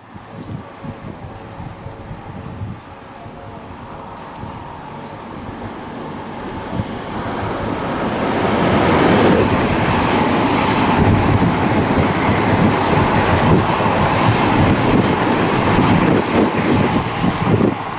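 Odakyu 4000 series electric train approaching and running through the station without stopping. Its wheel-and-rail noise builds gradually and is loud from about halfway on, with dense clattering as the cars pass.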